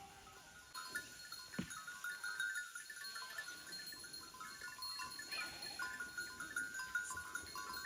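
A flock of sheep with bells jangling continuously, and an occasional bleat.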